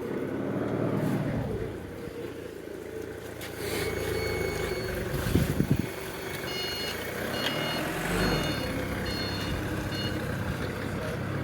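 Vauxhall/Opel A12XER 1.2-litre four-cylinder petrol engine idling steadily, running well. From about four seconds in a vehicle's reversing alarm beeps on and off, and a couple of sharp knocks sound around the middle.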